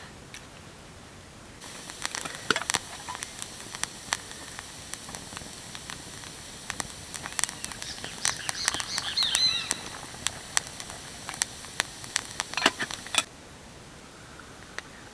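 Wood campfire crackling and popping over a steady hiss, with a few short whistling tones in the middle; it cuts in about a second and a half in and cuts off abruptly near the end.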